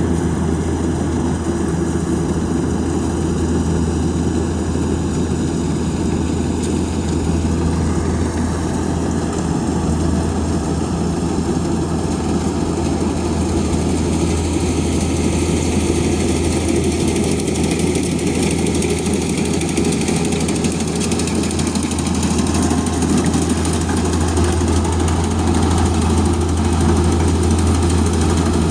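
Rice combine harvester's engine running steadily, a continuous low drone.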